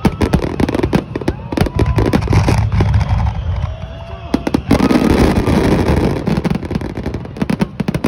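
A fireworks barrage: shells bursting in rapid succession as many sharp cracks, with a few short whistles in the first half. A little past halfway the sound thickens into a dense, continuous din.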